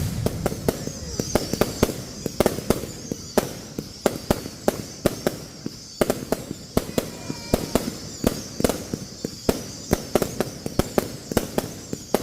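Fireworks going off in rapid succession: a continuous irregular string of sharp bangs, several a second, over a steady high hiss.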